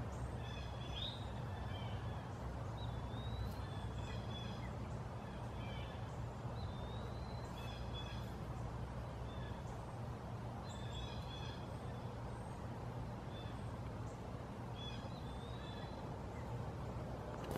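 Outdoor ambience: a bird calling in short chirping phrases every couple of seconds over a steady low rumble, with a single sharp click at the very end.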